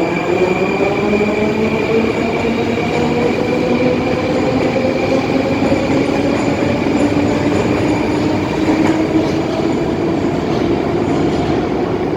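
Rusich metro train accelerating: its traction drive whines in several rising tones that climb over the first few seconds and then level off, over a steady rumble of running on the rails.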